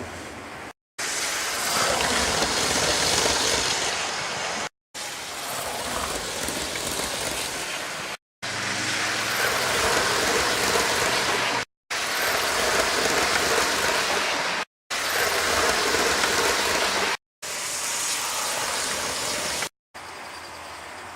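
Model railway train running along its track, a steady noisy running sound. It comes in a string of short takes, each a few seconds long, separated by abrupt brief silences.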